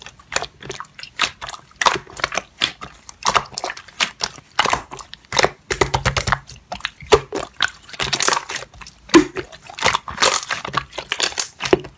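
Slime being squished and pressed by hand: a dense run of irregular sticky clicks and crackles.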